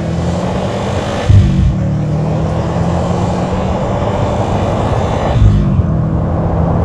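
The 2007 Subaru Impreza WRX STI's turbocharged 2.5-litre boxer four, tuned to 400 hp, running steadily while driving, with road and wind noise. The engine briefly gets louder about a second in and again about five seconds in.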